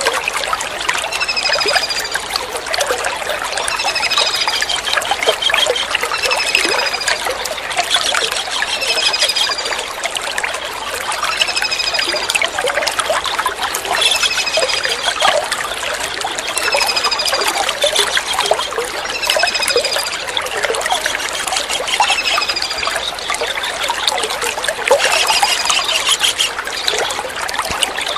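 Water trickling steadily, with a kingfisher's short, high, falling call repeating every one and a half to two seconds over it and a few brief bursts of chattering.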